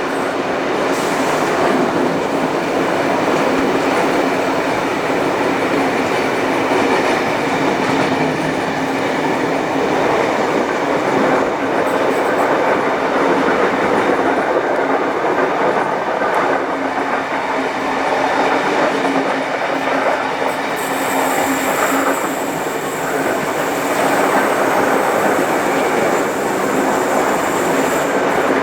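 Heritage passenger train hauled by steam locomotive 3801 running along the line: a steady rumble of carriage wheels on the rails. About 21 seconds in, a high hiss joins and lasts until near the end.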